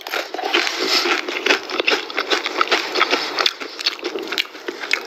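Close-up chewing and crunching of KFC fried food: a dense run of crisp crackles and crunches.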